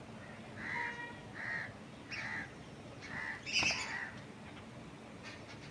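Bird calls: a run of about five short calls a little over half a second apart, the loudest about two-thirds through.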